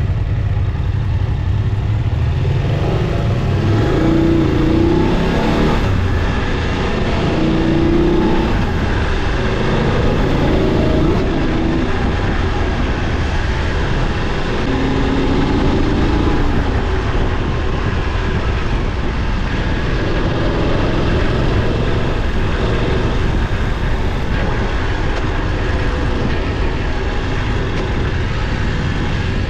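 Motorcycle engine running steadily under way, its pitch briefly rising and falling several times in the first half of the ride, over a continuous rumble.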